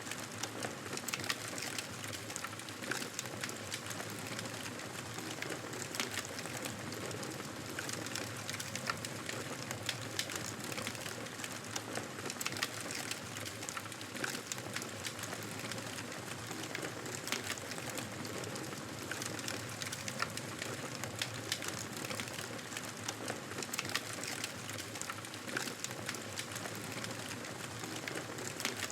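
Wood fire crackling in a fireplace: a steady hiss with many small, sharp pops scattered throughout.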